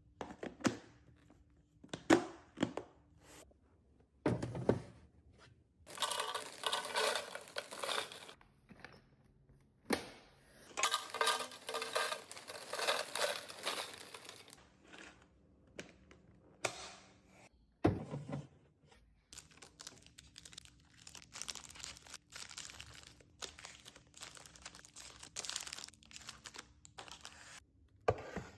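Plastic snack wrappers crinkling and rustling, with items set down with sharp knocks and then a run of quick clicks and taps near the end.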